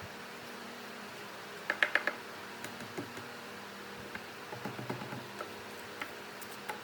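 Light clicks and taps, a quick run of four about two seconds in and then scattered single ticks, over a steady low hum.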